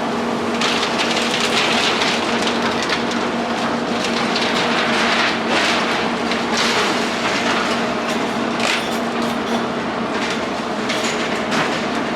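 Demolition machinery at work: a heavy engine's steady hum under irregular crunching and clattering of breaking concrete and falling rubble.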